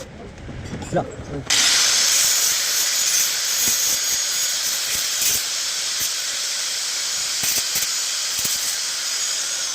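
A steady hiss of compressed air that starts suddenly about one and a half seconds in.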